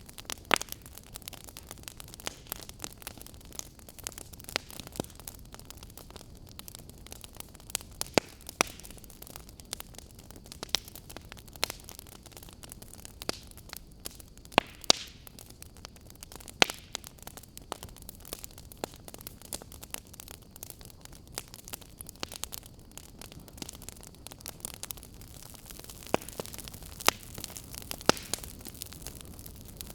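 Fire crackling: irregular sharp pops and snaps over a steady hiss, a few pops much louder than the rest.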